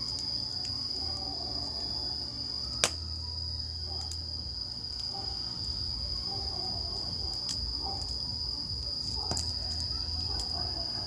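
Campfire crackling with scattered sharp pops, one much louder pop about three seconds in, over a low rumble of the flames. A steady high-pitched insect trill, like crickets, runs under it without a break.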